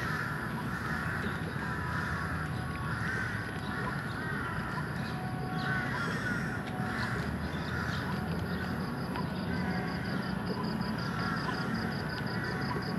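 Birds calling over and over, about once a second, over a steady low city hum. A high pulsing buzz joins about eight seconds in.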